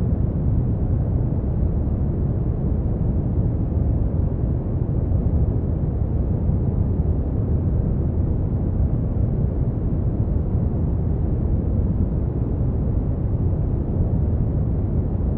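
Steady brown noise: a deep, even rumbling hiss with no tones or events, strongest in the bass and fading out above the upper mids.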